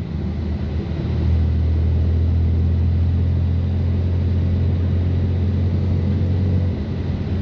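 BMW F80 M3's twin-turbo inline-six, with catless downpipes and an always-open valved exhaust, droning at a steady low note while cruising. It eases off briefly in the first second, picks back up, and softens a little near the end.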